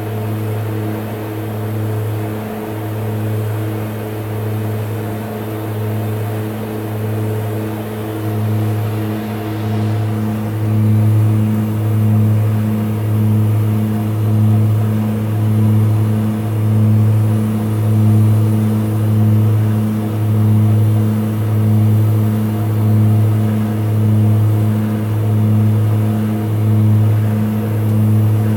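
The twin Garrett TPE331 turboprops of a BAe Jetstream 32 heard from inside the cabin: a loud, steady, low propeller drone that throbs, swelling and fading about once every second and a half as the two propellers run slightly out of step. The throbbing grows more pronounced about ten seconds in.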